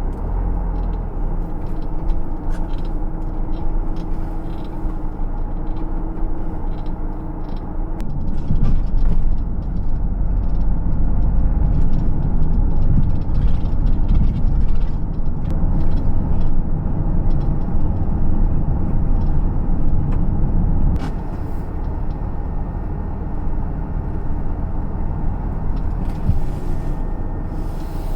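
Vehicle on the move: a steady low engine and road rumble. It gets louder about eight seconds in and eases back after about twenty seconds.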